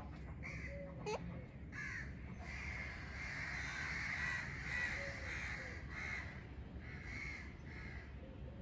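A parrot giving a string of harsh, crow-like cawing squawks, short calls at first and late, with a longer run of calls in the middle.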